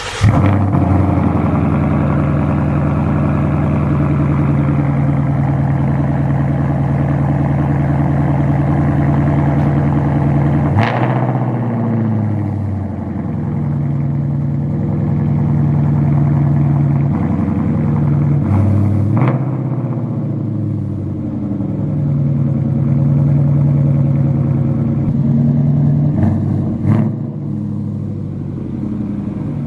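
2016 Ford Mustang GT's 5.0-litre V8, running through a newly fitted AWE Track Edition cat-back exhaust, idling just after its first start. It gets three short throttle blips, roughly eight seconds apart.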